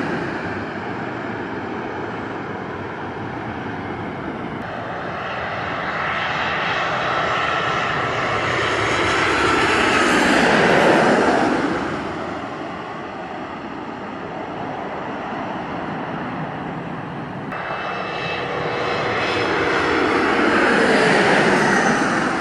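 Airliners on landing approach passing low overhead, engine noise swelling and fading twice, about halfway through and near the end, with an engine whine that falls in pitch as each one goes by.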